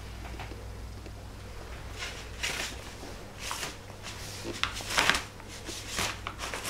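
A cat nosing at and eating catnip: a few short, soft, breathy sniffs and rustles, spaced a second or so apart.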